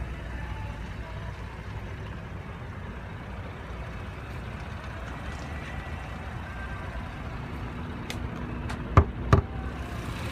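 2016 Chevrolet Camaro 3.6-litre V6 idling, a steady low rumble, with two sharp clunks in quick succession near the end.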